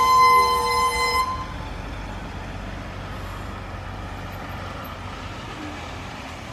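A vehicle horn held in a long honk that stops about a second in, then the steady low rumble of passing traffic.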